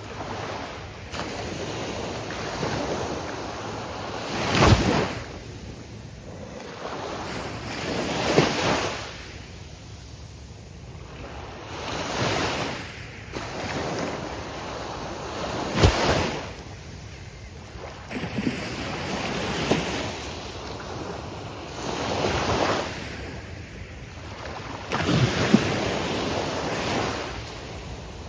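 Gulf of Mexico surf breaking on the beach, swelling and falling away every three to four seconds, with a few sharper crashes. Some wind on the microphone.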